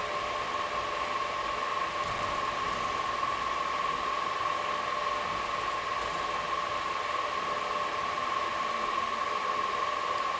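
Steady rushing noise inside an air-conditioned train coach while the train runs, with a steady high whine throughout.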